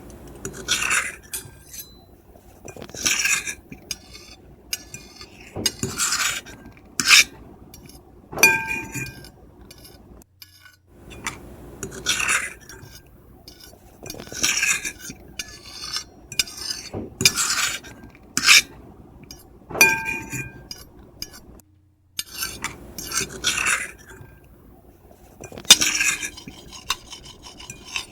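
Metal fork and knife scraping across a ceramic plate in repeated strokes about every second or two, some strokes setting the plate ringing briefly with a high squeal, with short pauses about ten seconds in and again near twenty-two seconds.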